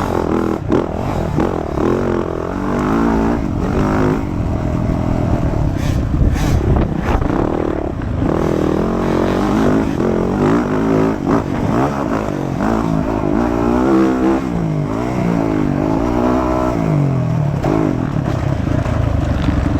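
Motocross dirt bike engine being ridden hard, its pitch rising and falling again and again as the throttle is opened and closed and gears change.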